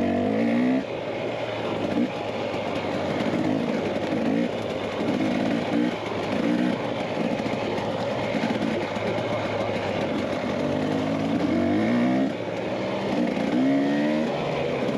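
Dirt bike engine running under way, its revs rising and dropping again and again with the throttle, with several rising revs near the end.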